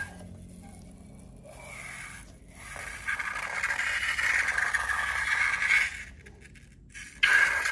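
Scraping and rustling from slime-making materials being handled. It is quiet at first, grows steady from about three seconds in, drops away for about a second, and comes back suddenly and louder near the end.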